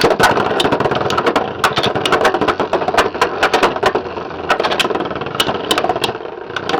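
Two Beyblade X spinning tops whirring in a plastic stadium, with frequent irregular sharp clacks as they strike each other and the stadium.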